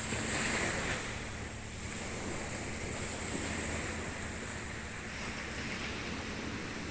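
Steady wash of sea water and wind noise, with a faint steady low hum underneath.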